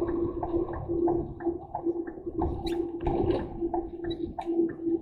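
Lorry cab interior noise: a steady hum over a low rumble, with short, sharp clicks and rattles at an uneven rate of about three a second.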